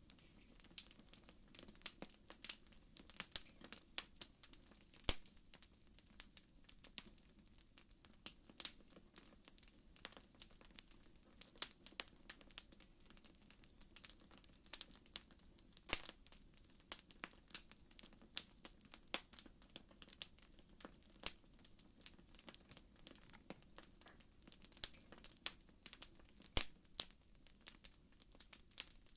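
Wood fire crackling: irregular snaps and pops, a few sharper than the rest, over a faint low rumble.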